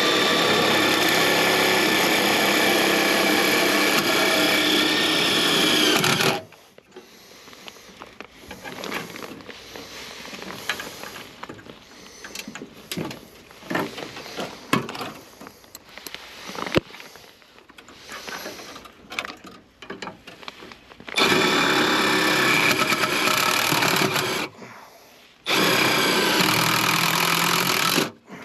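Power drill running with a long 1/4-inch bit: one steady run of about six seconds, its whine dipping in pitch near the end, then two shorter runs of about three seconds each near the end. In between, quieter clicks and rustling of tools being handled.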